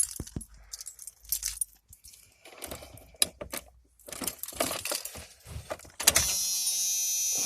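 Keys jangling and clicking as the ignition key of a 1996 Dodge Ram is handled and worked into the ignition. About six seconds in, a steady buzzing hum comes on abruptly as the key is turned to on, before the engine is cranked.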